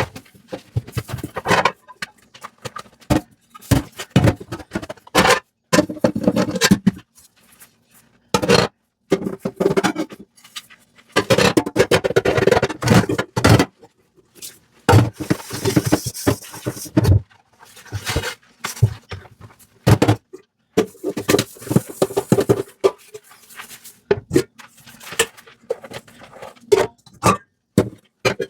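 Hand dishwashing at a sink: dishes and utensils knocking, clinking and scraping in irregular bursts, with a short spell of running water in the middle.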